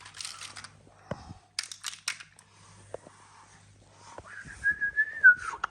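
Crinkling and rustling of plastic toy packaging with scattered plastic clicks. About four seconds in, a high steady whine starts, then falls away about a second later.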